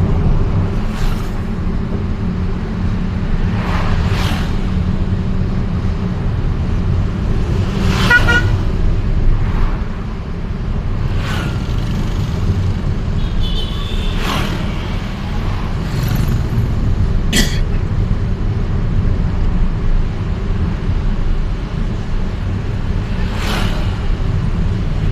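Steady vehicle and street-traffic noise heard from a vehicle on the move, with a low rumble throughout and a few short horn toots, one about eight seconds in and a sharper one past the middle.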